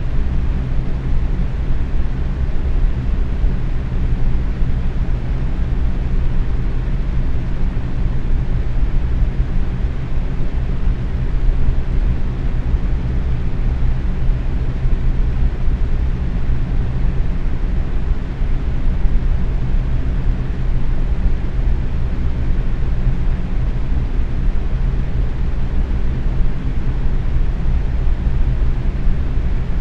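Box fan running steadily at medium speed: an even whoosh of moving air over a low motor hum.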